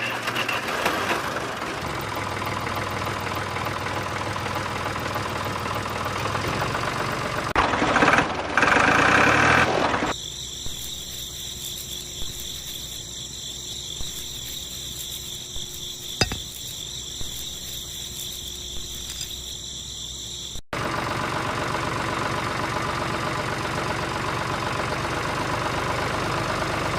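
Small motor-driven machinery running, in three separate stretches with abrupt changes between them; the quieter middle stretch carries a steady high whine.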